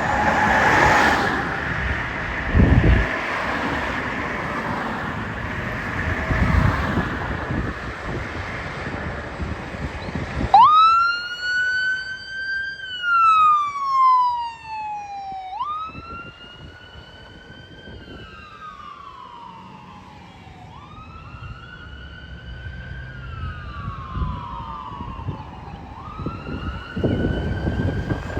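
Emergency vehicle siren wailing, each cycle a quick rise in pitch and a slow fall, repeating about every five seconds. It starts about a third of the way in, after loud passing traffic noise with a couple of short loud blasts.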